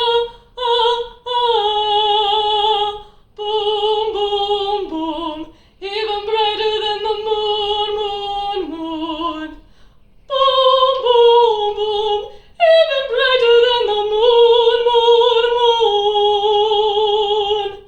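Female voice singing a cappella in an operatic style: long sustained notes with vibrato in several phrases separated by short breaths, ending on a long held note that stops near the end.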